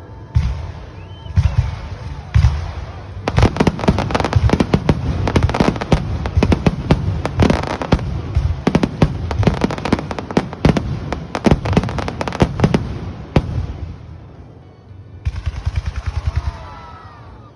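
Fireworks going off: a few separate bangs, then about ten seconds of rapid, dense crackling reports that die away, with more bangs starting again near the end.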